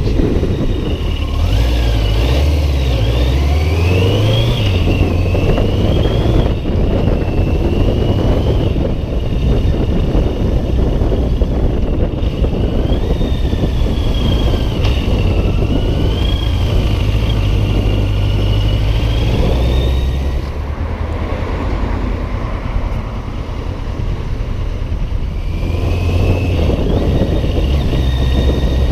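Yamaha XJ900 motorcycle engine running on the road, its pitch rising and falling repeatedly as it speeds up and shifts, under heavy wind buffeting on a chest-mounted GoPro.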